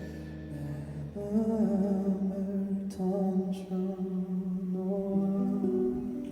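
Live band music in the quiet closing passage of a ballad. A soft wavering melody plays over a held low note, coming in about a second in after the fuller passage before has faded.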